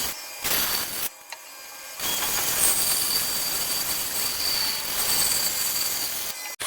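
A power tool working on wood, making a steady hiss with a faint high whine. It breaks off briefly twice in the first two seconds, then runs steadily for about four seconds.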